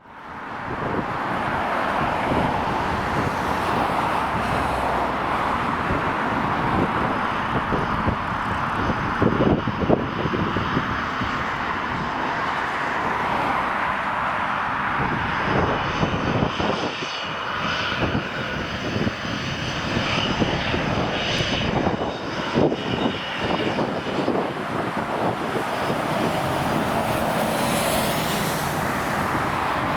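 Dassault Falcon 20 business jet's twin jet engines running steadily for a takeoff, a continuous loud rush of jet noise with a high whine over it.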